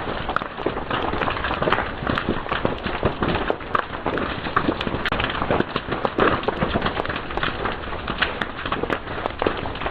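Fire crackling and popping: a dense, irregular run of sharp snaps and pops over a steady hiss.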